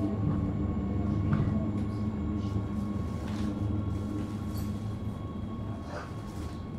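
Interior of a metre-gauge electric commuter train running on the rails: a steady low rumble from the wheels and running gear with a steady electric hum, growing gradually quieter as the train slows alongside a station platform.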